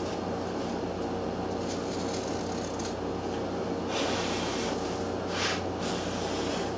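A few short scraping, rubbing sounds of a pattern being worked loose from a sodium silicate sand mold, the sand crumbling at one edge. Under them runs a steady machine hum.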